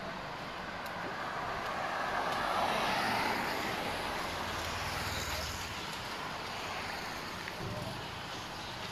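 A motor vehicle passing along the street, its noise swelling to a peak about three seconds in and fading away, with a low engine rumble as it goes by.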